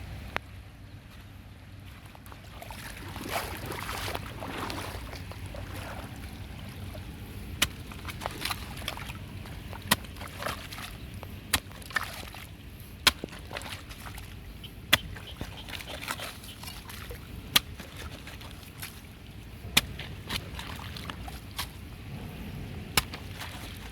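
Water sloshing and splashing while a clogged drain is cleared, with sharp knocks about every two seconds from the middle on.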